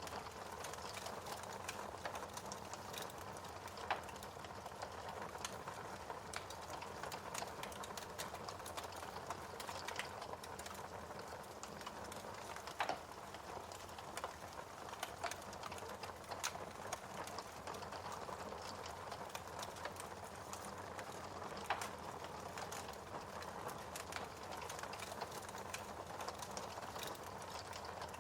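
Wood fire crackling in a fireplace: a steady hiss with frequent small pops and a few louder snaps.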